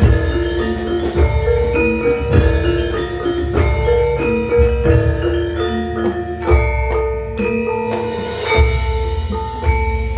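Javanese gamelan playing a gending: bronze metallophones and gongs struck in interlocking ringing notes over low drum (kendang) strokes.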